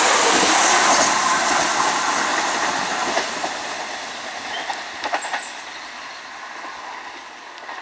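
Diesel multiple unit passing at speed, its noise fading steadily away. A few clicks of the wheels come in the middle as it goes.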